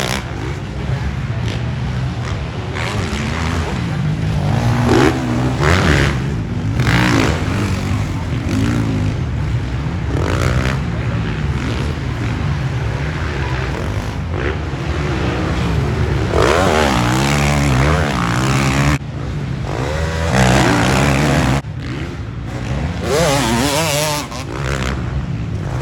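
Several motocross dirt bike engines revving up and down, rising and falling in pitch as the bikes race around the track.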